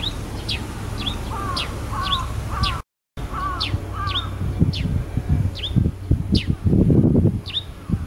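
Birdsong: short, high notes that sweep downward, repeated about twice a second, with a lower wavering double call in the first half. The sound drops out briefly about three seconds in, and there is low rumbling noise near the end.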